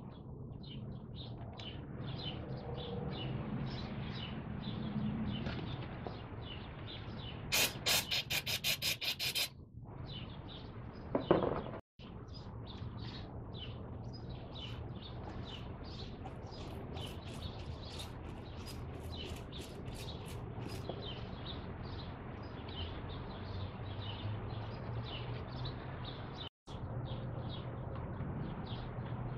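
Small birds chirping again and again over a steady low hum. About eight seconds in comes a quick run of about a dozen sharp clicks, and a couple of seconds later a single knock.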